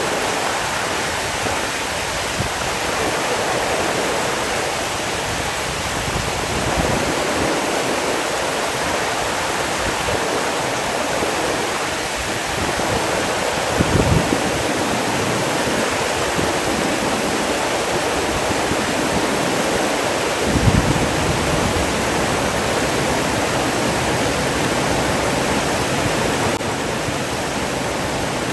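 Steady rush of flowing water, with two brief low thumps, about 14 seconds in and again about 7 seconds later.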